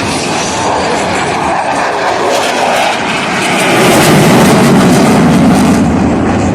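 Blue Angels F/A-18 Super Hornet jets flying past with a loud jet roar. The roar builds to a peak about four seconds in, and its pitch drops as the jets go by.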